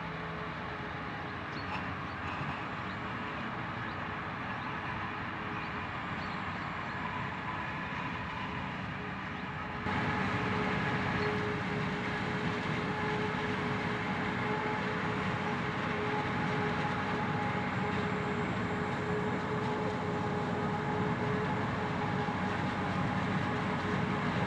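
Heavy harvest machinery running steadily, with a constant whine over the engine noise. It gets suddenly louder about ten seconds in.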